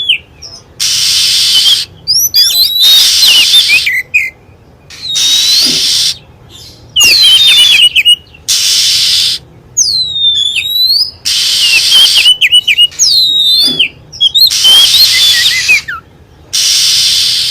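Oriental magpie-robin song played as a bird-lure recording: loud, varied whistled phrases with sweeping rising and falling notes. They come in bursts of one to two seconds that start and stop abruptly with short gaps between, over a steady hiss.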